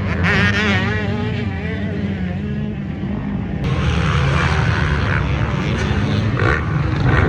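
Several off-road racing engines running on the track, their pitch wavering up and down as riders work the throttle, over a steady low rumble; the sound gets louder and brighter about halfway through.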